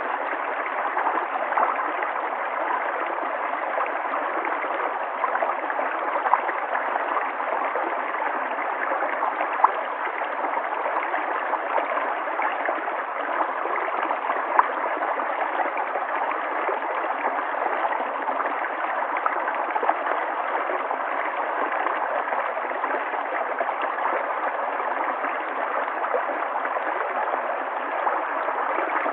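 River water flowing steadily, a constant rush with a few brief louder splashes here and there.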